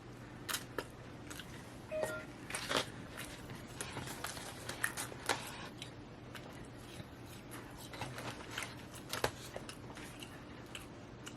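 Close-up chewing and crunching of fried food, with scattered crisp clicks and crunches, over a faint steady low hum.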